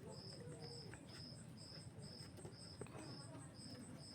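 Insects chirping in a steady, even rhythm of about two high chirps a second, with a fainter, higher pulsing trill behind them.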